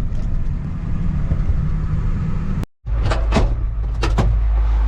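Steady road and engine rumble inside a moving vehicle, which cuts off abruptly about two and a half seconds in. A deep, steady hum of the 1993 Ford F350's 7.3 IDI diesel idling takes over, with a few short clicks or knocks.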